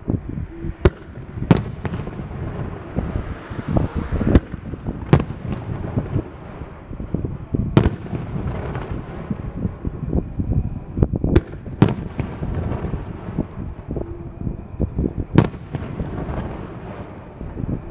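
Aerial firework shells bursting overhead: about ten sharp bangs at irregular intervals over a continuous low rumble.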